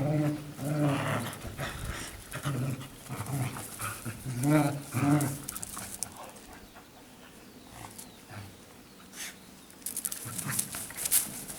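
Lapponian Herder dogs growling in play, a string of short growls through the first half. Near the end, a run of clicks and scratchy noises.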